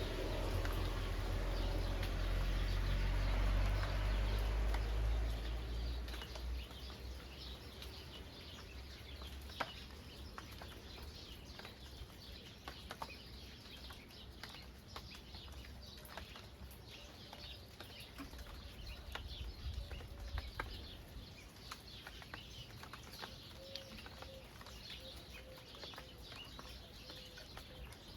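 Rain dripping and pattering in scattered ticks while small birds chirp, with a low repeated bird call in the second half. A heavy low rumble, like wind on the microphone, fills the first six seconds or so and then dies away.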